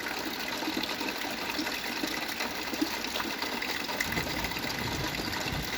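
Heavy rain pouring down with a steady hiss and scattered taps of drops hitting a bucket. A low rumble joins about four seconds in.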